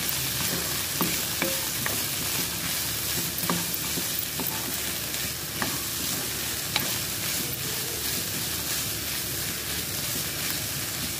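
Chopped onions, green chillies and curry leaves sizzling in oil in a non-stick kadai as a spatula stirs them, with a steady hiss and scattered light clicks and scrapes of the spatula against the pan.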